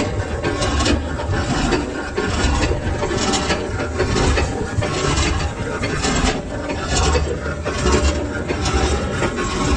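Metal being machined on a lathe: a continuous rasping, scraping noise that surges irregularly about once or twice a second.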